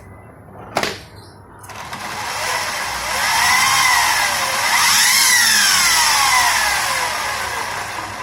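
Nine Eagles Solo Pro 319 RC helicopter's electric motor and rotor spinning up with a rising whine and rushing hiss, dipping and rising again to a peak about halfway, then winding down. A sharp click comes just before the spin-up.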